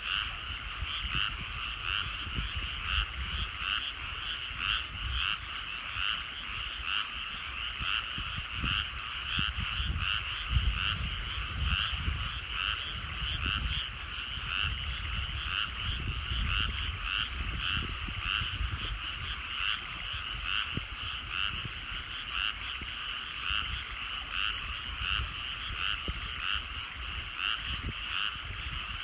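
Chorus of many rice-paddy frogs calling together, a dense overlapping pulsing of calls repeating a few times a second without a break. A low, uneven rumble runs underneath.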